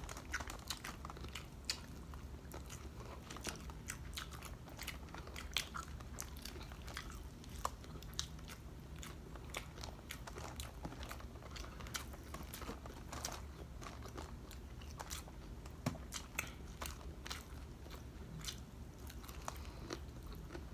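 Close-miked eating of crispy breaded fried pork chop and vegetables: chewing broken by frequent, irregular crisp crunches and bites, over a low steady hum.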